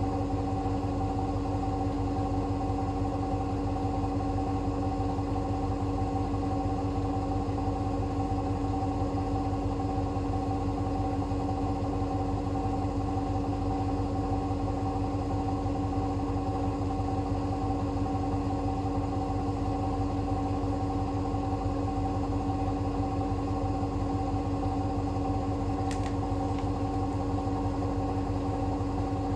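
Hoover H-WASH 500 washing machine spinning its drum at a steady high speed, the motor giving an even, unchanging whine over a low rumble. This is typical of the final spin near the end of the cotton cycle.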